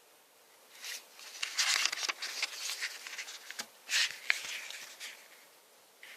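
Packaging being handled: irregular rustling with several sharp clicks, starting about a second in and dying away about five seconds in.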